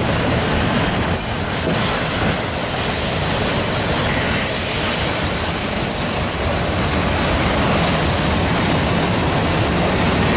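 A Union Pacific freight train of autorack cars rolling past: steady rumble of steel wheels on the rails, with faint high-pitched wheel squeal coming and going.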